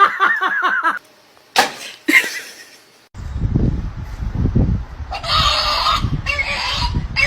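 Domestic fowl calling: a quick run of about eight short calls in the first second. Then a couple of sudden sharp noises, and from about three seconds in a rumbling, noisy stretch with several loud bursts.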